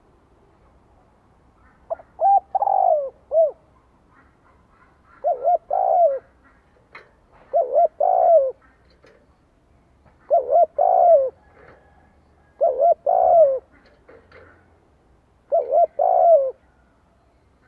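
Spotted dove cooing as a decoy to call in and provoke wild males. It gives six repeated phrases, about one every two and a half seconds. Each phrase is a couple of short notes followed by a longer coo that falls in pitch.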